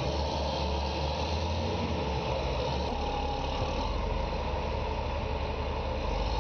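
Engine of a heavy tire-handling machine running steadily at a constant level.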